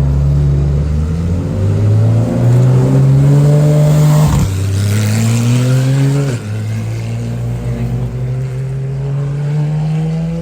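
Straight-piped Porsche 991 GT3 RS's naturally aspirated flat-six, loud under hard acceleration, its pitch climbing through the gears. A gear change comes about four seconds in. The pitch drops sharply about six seconds in, then climbs again.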